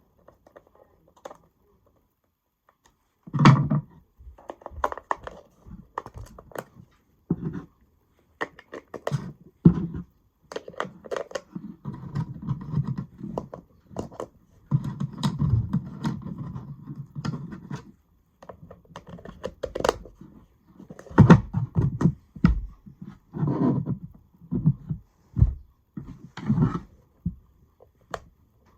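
Small hard objects being handled close by: irregular clicks, taps and knocks, with two longer stretches of rubbing or scraping about twelve and fifteen seconds in.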